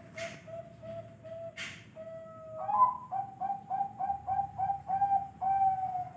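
Zebra dove (perkutut) cooing: a run of short, soft, even notes, then a rising phrase and a quick rhythmic string of coos, about three a second, ending in a longer held note. Two brief noise bursts come near the start.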